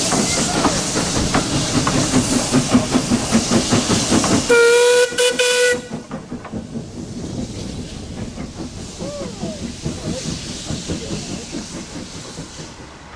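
Steam locomotive working past with steady exhaust beats, about four a second. About four and a half seconds in it sounds its whistle for just over a second, then the beats fade away.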